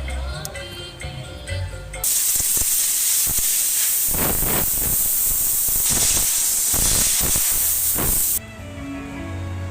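A loud, steady hiss starts suddenly about two seconds in and cuts off sharply about six seconds later, over background music.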